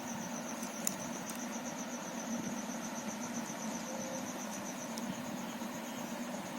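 A steady high trill pulsing several times a second, typical of a cricket, over a low pulsing hum, with a few faint clicks.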